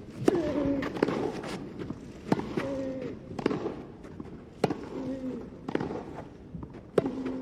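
Tennis rally: a racket strikes the ball about once a second, seven hits in all, each followed by a short vocal grunt that falls in pitch.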